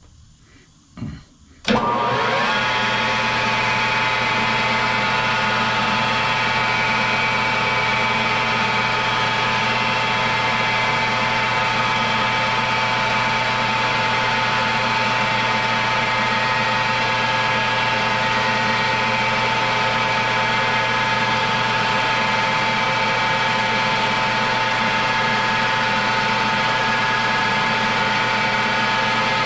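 A machine tool's electric motor switched on about two seconds in, spinning up quickly, then running steadily with a steady high whine, for a seven-thousandths cut on a machined part. A couple of light knocks come just before it starts.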